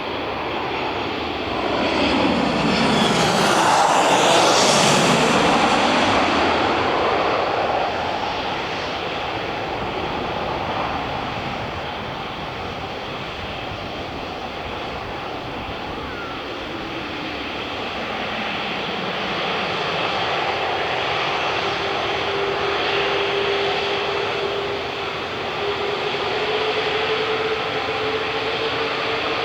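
Four-engined Airbus A380 jet airliner passing close, its engine noise swelling to a peak about four seconds in with a sweeping, phasing whoosh, then carrying on as a steady jet rumble that slowly fades and swells again.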